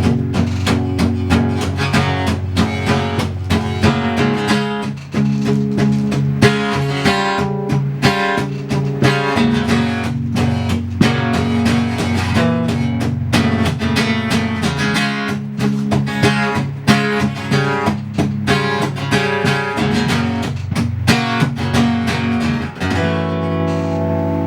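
Instrumental guitar intro to a song: strummed chords in a steady rhythm with no singing, ending on a held chord near the end.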